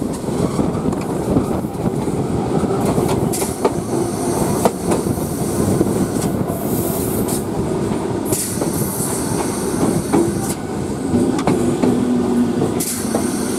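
Indian local train running, heard from its open doorway: a steady rumble of wheels on the rails with irregular clicks over the rail joints. Several bursts of high-pitched squeal come from the wheels as the train takes a curve.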